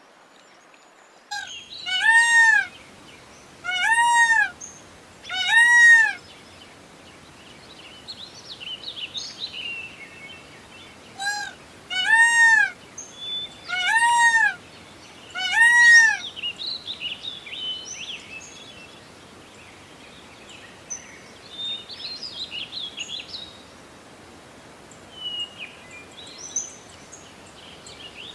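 Peacock calling in two series of loud calls, each a short call followed by three longer ones about two seconds apart, every call rising then falling in pitch. Small birds chirp faintly in the background.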